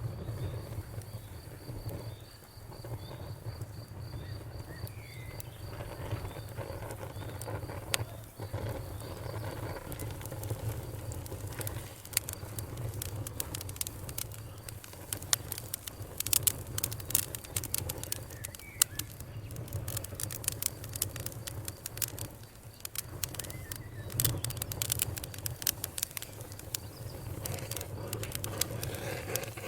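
Wood fire crackling and popping over a low steady rumble, with the sharp pops coming thickest in the second half. A faint high chirp repeats evenly over the first several seconds.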